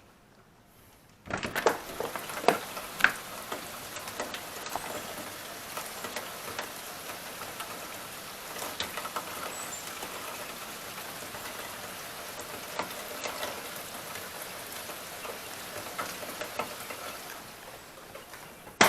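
Heavy rain pouring down, a steady hiss dotted with sharp drips and splashes, which comes in suddenly about a second in.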